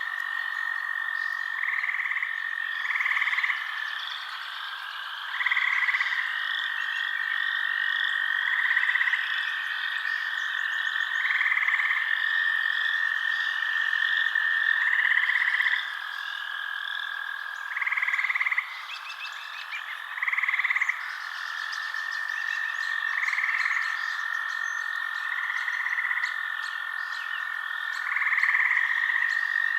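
Night chorus of frogs calling, with louder calls every two to three seconds over a steady high trill and a busy layer of quick chirps above it.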